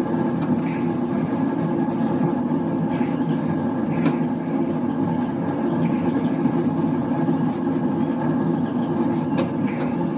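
Steady low mechanical drone of paint booth ventilation fans, unchanging throughout, with a few faint clicks.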